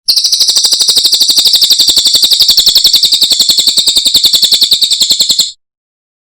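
Cililin bird song: one rapid, high-pitched trill of about a dozen evenly spaced notes a second, held steady for about five seconds, then cut off abruptly.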